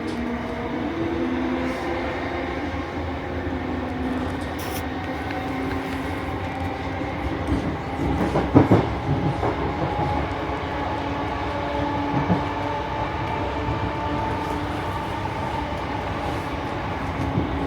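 Class 455 electric train running, heard from on board: steady running noise and a motor whine whose pitch shifts slightly. The wheels clatter over points or rail joints about halfway through, with a couple of smaller knocks later.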